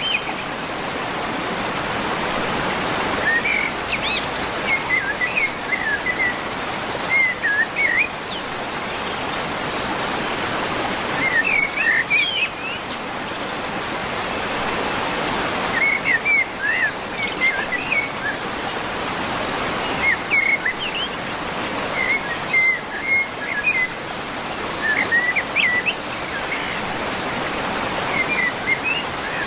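A songbird singing short phrases of quick chirps, repeated every few seconds, over a steady rushing background noise.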